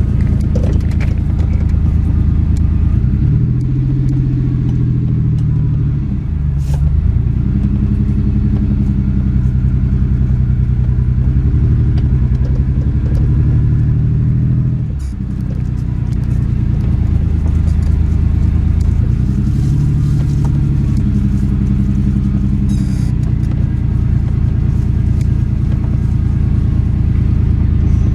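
Ford Explorer V6 engine running rough on five of its six cylinders because one cylinder is not firing, under way at low speed. Its note rises and falls several times, easing off briefly about six seconds in and again about halfway through.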